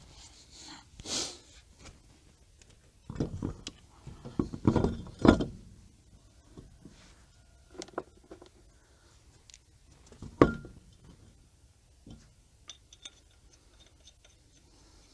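Metal clinks and knocks from a car wheel and its lug nuts being handled as the wheel is refitted onto the hub, in a few scattered clusters; the loudest is a sharp clink about ten seconds in that rings briefly.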